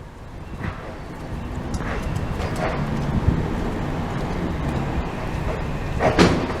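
British Rail Class 317 electric multiple unit running into the station, its rumble growing steadily louder with a steady low hum, and a short sharp sound near the end.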